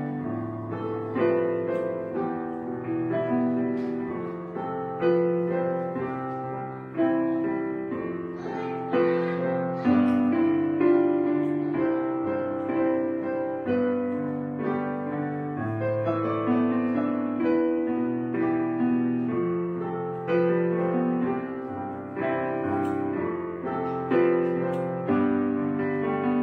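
Background piano music, a slow run of single notes and chords that ring out and fade.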